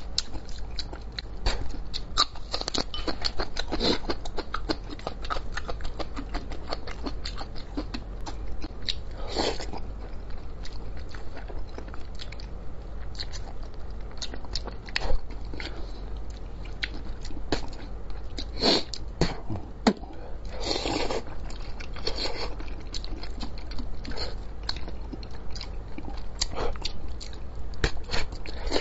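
Close-miked chewing and eating of braised fish: a steady run of wet mouth clicks and smacks, with a few louder ones scattered through.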